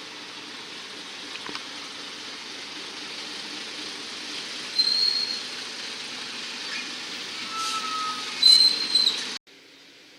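Train running on the rails with a steady rolling rumble, its wheels giving short high squeals about five seconds in and again, loudest, near the end. The sound cuts off suddenly just before the end, leaving a faint hiss.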